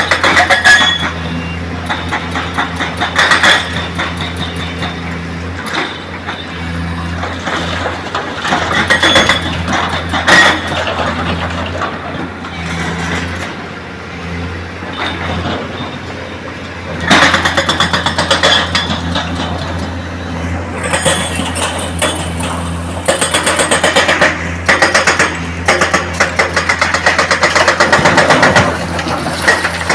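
Heavy diesel machinery engine running steadily, with repeated stretches of loud rattling and clatter, the loudest beginning about two-thirds of the way in and again near the end.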